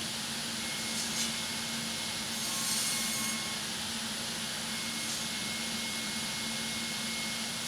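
Sliding table panel saw running with a steady hum and hiss; the hiss swells briefly about a second in and again around three seconds in.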